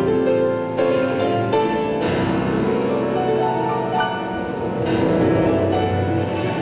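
Classical orchestral music: held chords that change every second or so.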